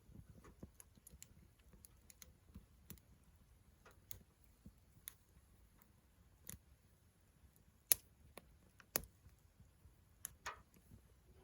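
Wood campfire crackling: sparse, irregular sharp pops, the loudest about eight seconds in, over a faint low rumble.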